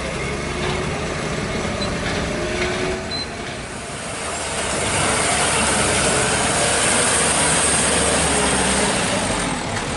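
Heavy truck engines running in a stalled traffic queue. From about halfway through, a louder, hissier vehicle sound swells for around five seconds and then drops back.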